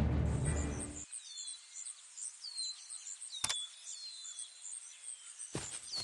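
Music ending within the first second, then quiet outdoor ambience with birds calling: a short falling high whistle repeats about once a second over fast, very high chirping, with one sharp click about halfway through.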